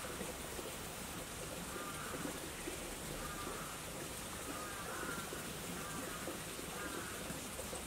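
A bird repeats a short warbling call about every one to two seconds over a steady outdoor hiss.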